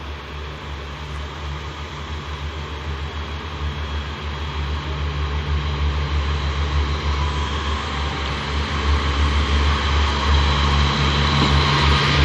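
Diesel train engine running with a steady low hum, growing steadily louder as the train draws nearer.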